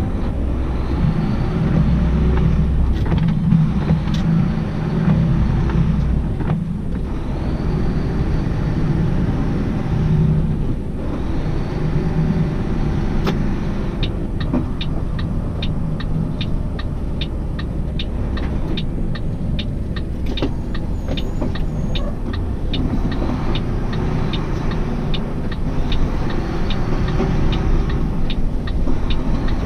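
Semi-truck engine running and road noise heard from inside the cab while driving slowly, with a steady low hum. A rapid, regular ticking runs for several seconds midway.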